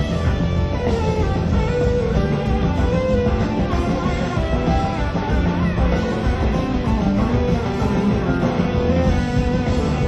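Live rock band playing an instrumental passage with no singing: an electric guitar leads in gliding lines over bass and drums.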